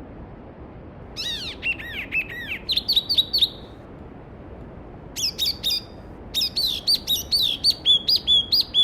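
A songbird singing three bursts of rapid, quickly repeated sliding notes, the first about a second in and the last running to the end, over the steady rush of a mountain stream.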